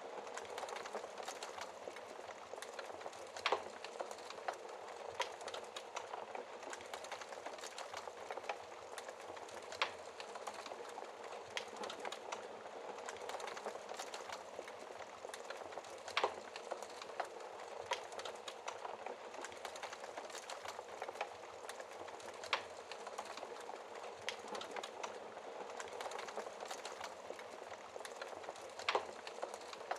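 Wood fire burning in a fireplace: a steady hiss of flames with frequent small crackles of burning logs. Five louder pops come about six seconds apart.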